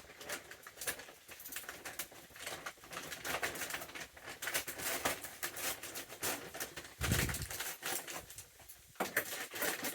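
In-shell peanuts being sorted by hand, shells crackling and rattling in quick irregular clicks, with a dull thump about seven seconds in.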